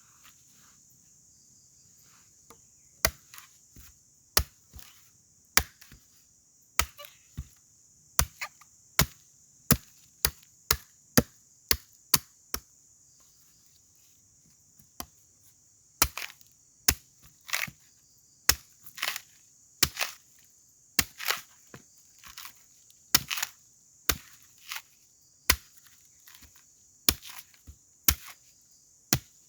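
Repeated sharp strikes on wood during shelter building, about one or two a second, in two runs with a pause of a few seconds in the middle. A steady high drone of forest insects runs underneath.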